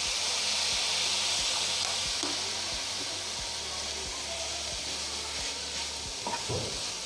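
Shredded chicken sizzling and hissing in a hot frying pan as soy sauce is added, the hiss strongest in the first couple of seconds and then easing. A few faint clicks come near the end.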